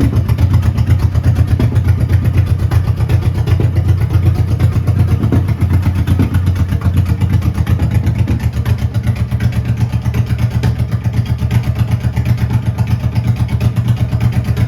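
2007 Honda Shadow Sabre's 1100 cc V-twin engine idling steadily, a loud, even low note.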